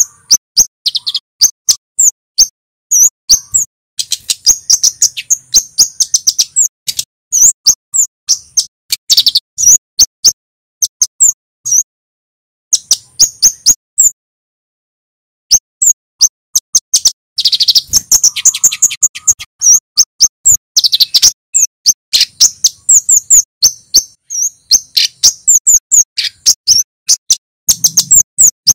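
Male kemade flowerpecker calling: rapid volleys of short, sharp, high 'cit' notes, many a second, with a brief pause about halfway through.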